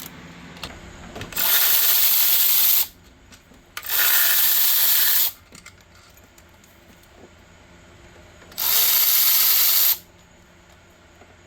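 Power ratchet spinning out the 13 mm alternator bolts on a swivel socket, run in three bursts of about a second and a half each.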